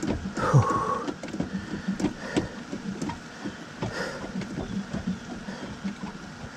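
Irregular clicks and light knocks of hands and tools handling parts while a generator is being reassembled.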